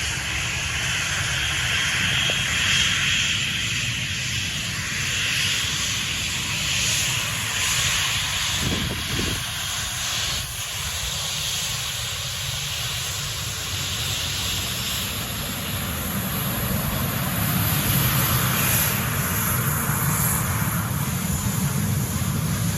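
Airliner engines running with a steady hiss and whine. The low rumble swells in the last third.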